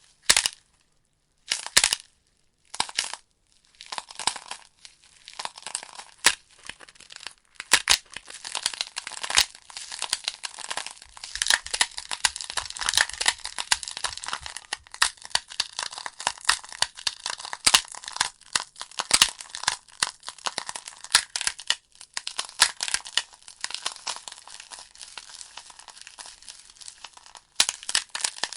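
Wood logs burning in a fireplace, crackling with a dense run of sharp pops and snaps over a steady hiss. The sound cuts out briefly a few times in the first few seconds.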